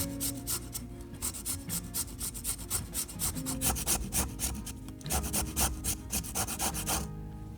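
Food being grated on a fine rasp grater: quick, even scraping strokes, about four a second, that stop about seven seconds in. Soft background music plays underneath.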